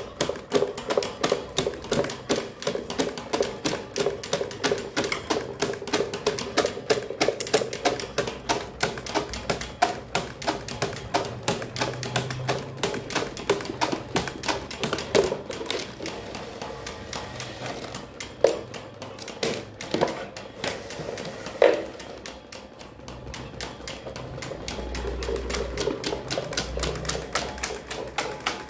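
Electric fan running fast with a rapid mechanical clatter, about four clacks a second, as its blades or a loose part strike something. The clatter thins out past the middle, leaving a few sharper single knocks, then picks up again with a low hum near the end.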